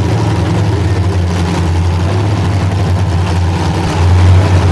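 Engines of full-size demolition derby cars running in the arena, a low steady rumble that swells louder about four seconds in as one revs up.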